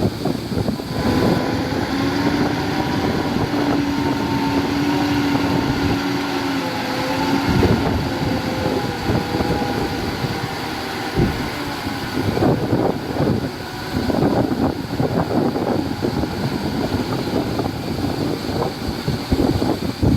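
Heavy diesel construction machinery running, with a steady engine tone for the first several seconds and then uneven rumbling, with wind noise on the microphone.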